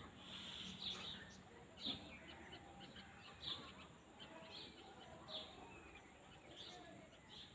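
Faint countryside ambience with small birds chirping: short, high, downward chirps repeating every half second to a second.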